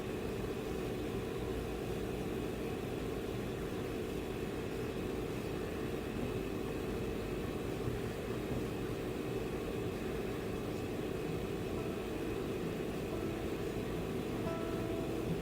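A car engine running steadily, a low even rumble with no changes.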